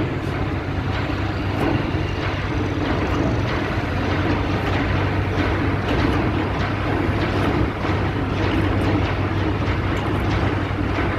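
Ship's anchor chain paying out slowly over the windlass: a continuous dense rattle of many small clicks over a steady low hum.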